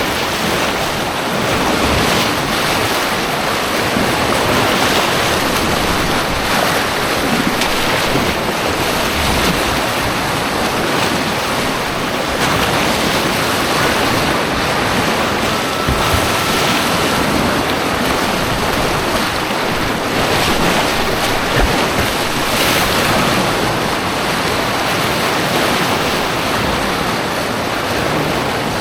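Rushing white water on an artificial white-water course, a steady, dense rush of churning rapids that holds level throughout.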